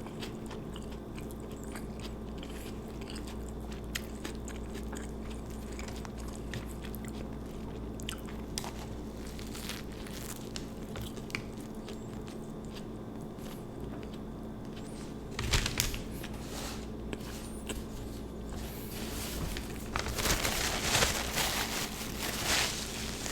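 Close-miked chewing and biting of an Italian sub, with wet mouth sounds and small scattered clicks. It becomes louder and more crunchy from about two-thirds of the way in, with a dense stretch of loud crunching near the end.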